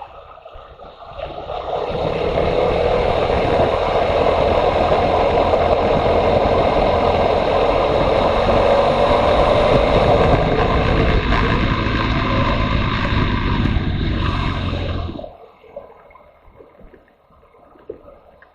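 Motorcycle riding noise, engine and wind rushing over the microphone. It swells over the first couple of seconds, holds steady, then cuts off abruptly about fifteen seconds in.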